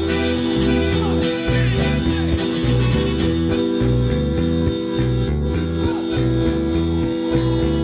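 Live band playing an instrumental passage, a bass guitar line stepping through low notes under held chords. A bright high shimmer thins out about three and a half seconds in.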